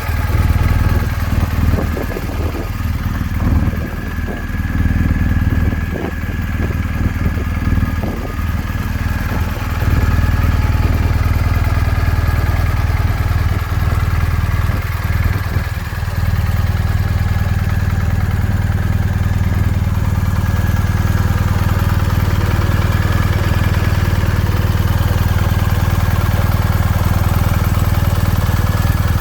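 Motorcycle engine running at idle. It is uneven for roughly the first ten seconds, then settles into a steady, even run.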